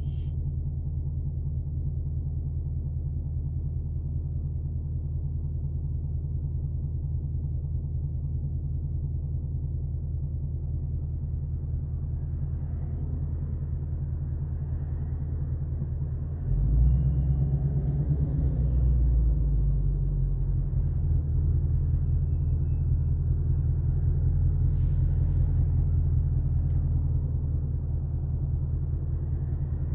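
Ford Mustang engine heard from inside the cabin, idling with a steady low rumble in stop-and-go traffic. About halfway through it takes load and pulls away, getting louder and lower in tone, then holds a steady, louder low drone at low speed.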